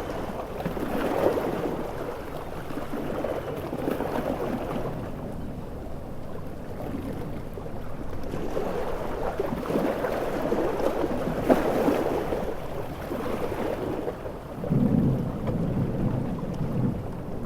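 Storm on a coast: heavy rain hissing over ocean waves that surge and wash in slow swells. Thunder rolls in low and deep about three-quarters of the way through.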